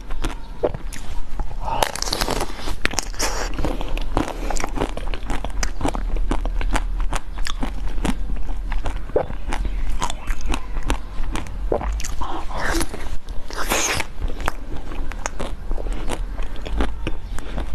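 Close-miked eating: crunchy bites and chewing, with dense crackling clicks throughout and a few louder bites along the way.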